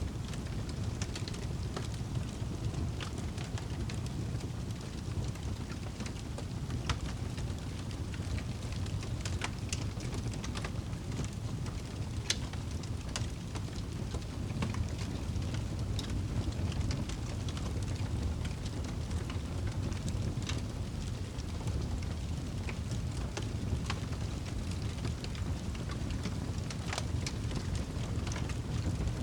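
Campfire crackling, with irregular sharp pops and snaps scattered over a steady low rumble.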